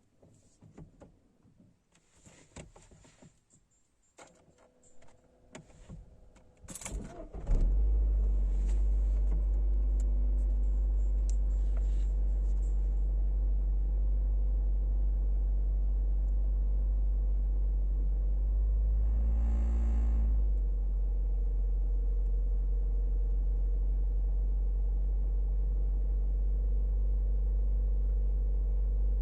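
Opel Meriva B's 1.4 turbo petrol engine (A14NEL, 120 hp) cold-started: quiet clicks for several seconds, a short crank at about seven seconds, then the engine catches and settles into a steady idle. The sound swells briefly about twenty seconds in.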